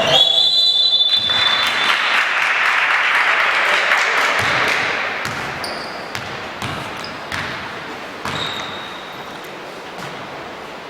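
Indoor basketball game: a referee's whistle blast at the start, then a rush of crowd noise that fades over a few seconds, with the ball bouncing and sharp knocks on the court. A second short whistle comes about eight seconds in.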